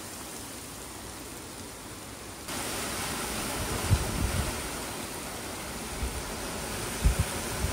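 Tropical-storm wind and driving rain: a steady rushing hiss that suddenly gets louder about two and a half seconds in, with a few low thuds of gusts hitting the microphone.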